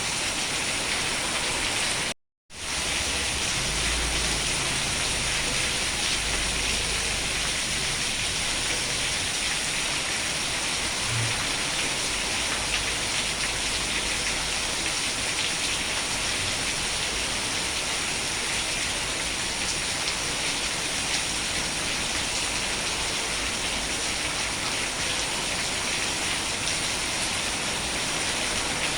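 Steady, dense rain falling. The sound cuts out completely for a moment about two seconds in, then resumes unchanged.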